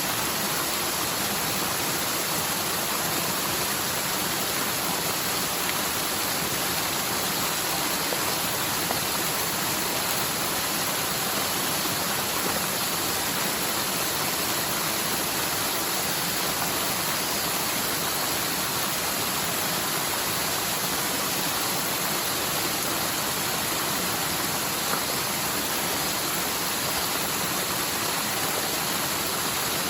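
Steady rush of a forest mountain stream in spate, a normally near-dry watercourse running full after a typhoon's heavy rain.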